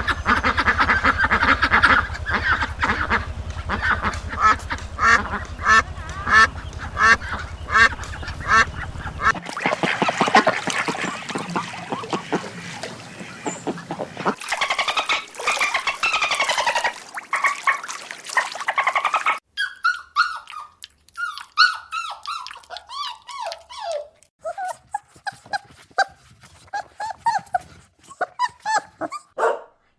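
Waterfowl calling, quacking and honking over and over, in several short clips that change abruptly every few seconds. The first clip has a steady low hum under the calls, and the last has calls that fall in pitch.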